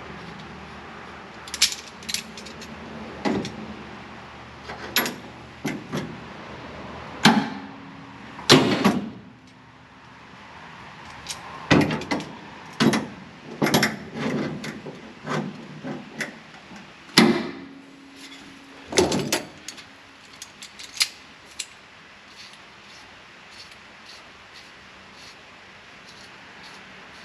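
Hand tools and a sheet-metal plate being handled and set into place on a car floor pan: irregular metallic knocks, clanks and jingles. They come thickly through the first twenty seconds, with a few louder knocks, then thin out to occasional light clicks.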